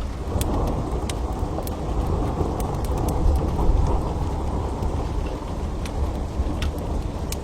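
Steady rain with a long, low rumble of thunder that swells shortly after the start and eases off near the end, over scattered sharp crackles of a wood fire.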